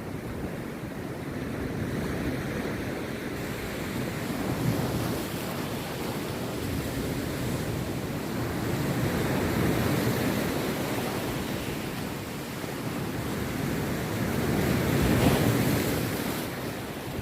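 Rough sea surf breaking on the beach: a continuous rush of waves swelling and easing, with the loudest break about fifteen seconds in. Wind buffets the microphone throughout.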